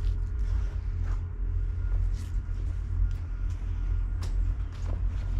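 An engine idles with a steady low rumble, and a few light scrapes and knocks sound over it.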